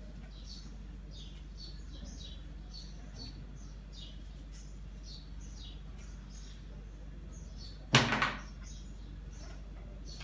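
Small birds chirping, short high notes a little more than once a second, over a low steady hum. About eight seconds in, a single sharp knock, the loudest sound.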